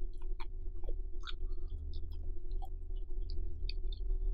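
Close-miked eating sounds: scattered wet mouth clicks and smacks of chewing stir-fried instant noodles, with noodles lifted by chopsticks, over a steady low hum.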